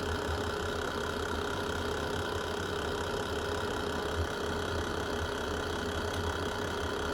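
Fireplace fire burning with a steady low rumble and one soft crackle a little past four seconds in.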